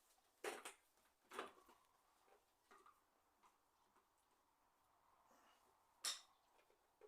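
Near silence with a few faint, short clicks and knocks, the clearest about half a second, a second and a half and six seconds in.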